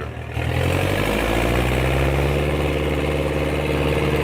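Dutra D4K tractor's Csepel six-cylinder diesel engine running. Its pitch climbs a little in the first second, then holds steady.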